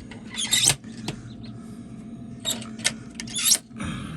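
Scratchy rustling and sharp clicks at an egg incubator holding hatching ducklings, coming in short bursts three or four times, over a steady low hum.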